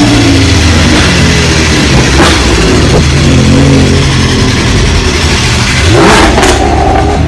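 Supercar engines running loud, with a hard rev near the end that rises in pitch and peaks about a second before the end.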